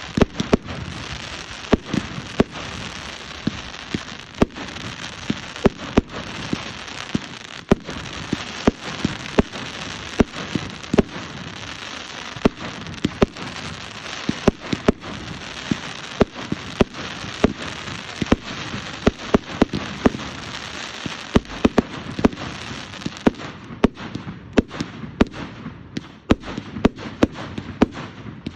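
Fireworks going off: many sharp bangs and pops, often several a second, over a continuous hiss. About 24 seconds in the hiss fades, and the bangs come more scattered.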